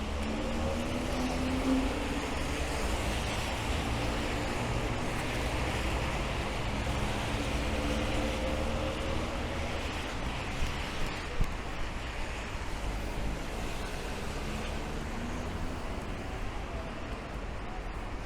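Rain and city traffic on a wet street: a steady hiss of rain and tyres, with a vehicle engine running through the first half, and a few sharp knocks a little past the middle.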